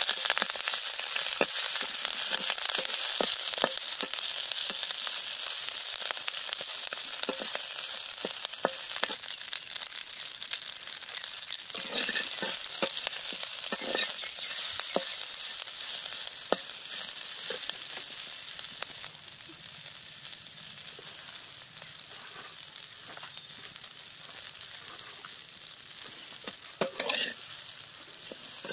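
Green leaves sizzling as they fry in an aluminium kadai, with a metal spatula scraping and knocking against the pan as they are stirred. The sizzle slowly grows quieter, and there are a few louder scrapes about halfway through and near the end.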